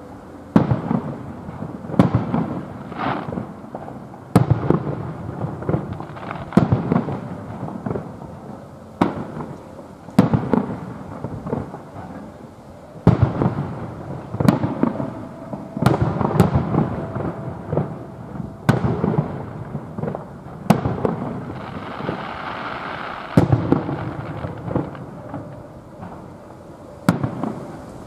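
Aerial fireworks display: about a dozen sharp bangs, one every one to three seconds, each followed by a rolling low rumble.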